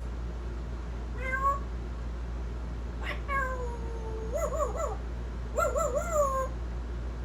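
African grey parrot calling: a short rising call about a second in, a long call falling in pitch around three seconds, then two quavering, wavering calls near the end.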